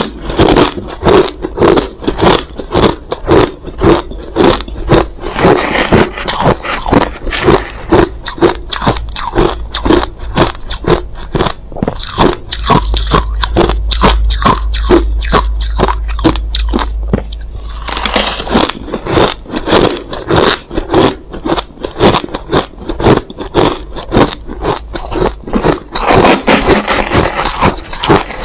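Close-miked chewing of crushed ice: rapid, repeated crisp crunches, several a second, as the ice is bitten and ground between the teeth. The crunching eases into a denser, lower grinding for a few seconds in the middle.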